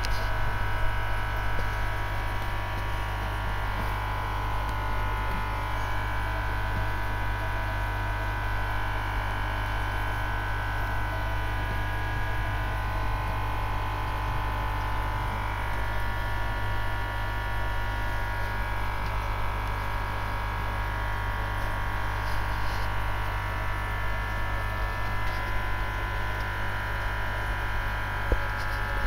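Aquarium filter pump humming steadily, with a low electrical hum underneath.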